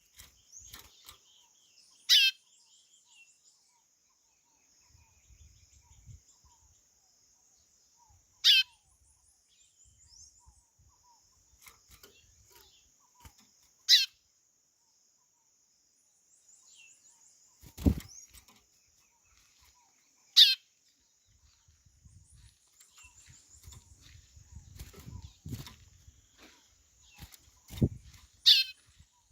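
White-bellied seedeater (chorão) giving five short, loud call notes that slide downward in pitch, about one every six seconds. Faint high chirping from other birds runs underneath, and there are a couple of low thumps.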